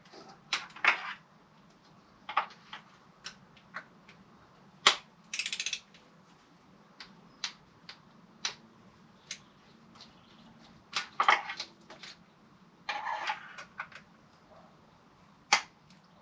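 Scattered metallic clicks and a few short ratcheting bursts from a torque wrench and socket tightening spark plugs.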